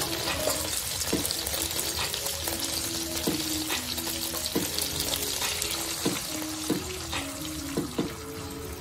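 Pork ribs sizzling in hot oil in a wok, a steady hiss with scattered pops. Near the end water is poured in over the ribs. Soft background music plays a simple melody over it.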